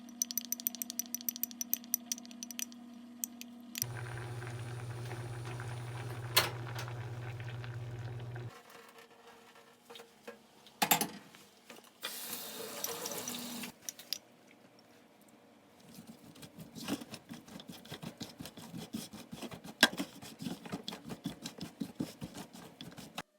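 Kitchen sounds in several short takes: a steady appliance hum, then a deeper hum, a brief rush of running tap water, and a long run of quick knocks and clicks from food preparation.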